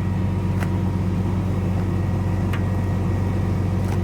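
An engine running steadily with a low, even rumble, with three light clicks spread through it.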